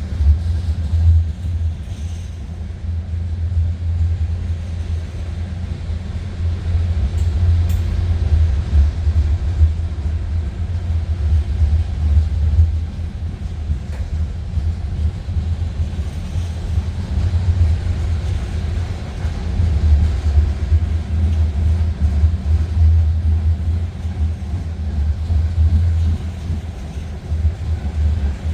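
Union Pacific freight train rolling past, a steady low rumble of the cars on the rails.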